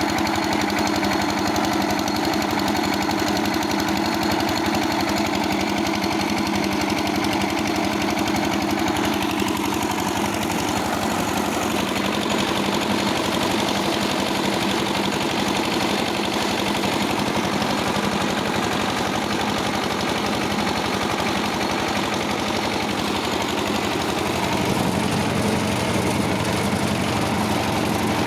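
Carrot washing machine running steadily: a continuous engine-like mechanical drone with a fast, even pulse, its pitch shifting slightly about ten seconds in.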